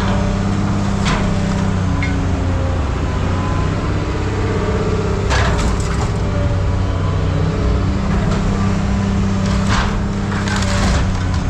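Heavy scrap-yard machinery running with a steady low drone, while scrap is crushed with several sharp cracks and crunches, about a second in, midway and twice near the end.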